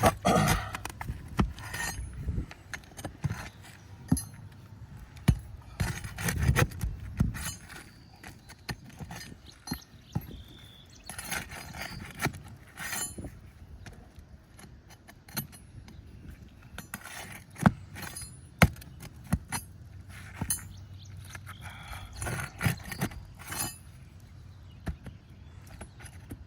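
A metal hand tool scraping and clinking against asphalt shingles and their roofing nails, working the shingles loose to release the fasteners. It comes in irregular bouts with several sharp clicks.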